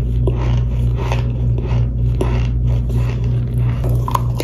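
Close-up chewing of crunchy baked cornstarch chunks: irregular dry crunches over a steady low hum.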